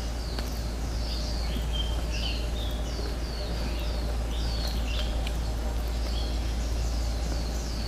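Birds chirping: many short, quickly falling calls repeated over and over, with a steady low rumble underneath.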